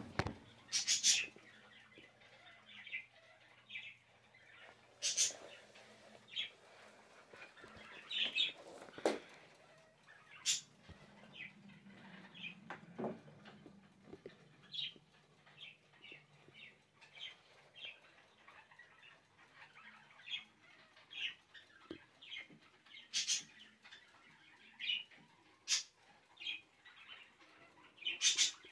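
Caged pet birds chirping, short high chirps scattered irregularly about once a second, over a faint low hum.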